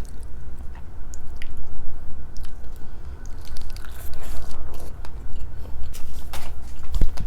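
Close-miked chewing of soft, moist sushi cake of rice and raw fish, with wet mouth clicks and squishing throughout.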